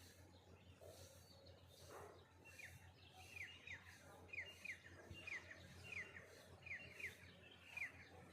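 A bird chirping faintly: a quick run of short, down-slurred chirps, many in pairs, starting about two and a half seconds in and repeating steadily.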